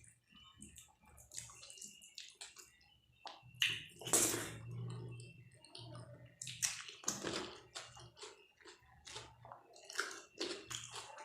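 Close-up wet eating sounds: chewing and lip smacking on dal and rice, with repeated small squishy clicks and louder bursts about four and seven seconds in.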